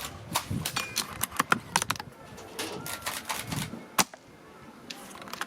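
Irregular run of sharp clicks and snaps from airsoft guns firing and being worked, with one sharper crack about four seconds in.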